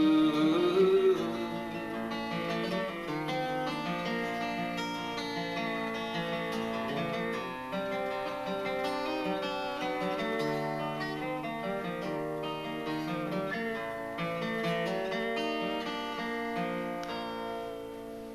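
Acoustic guitar playing the closing bars of a folk song, growing quieter near the end. A held sung note rises and ends about a second in.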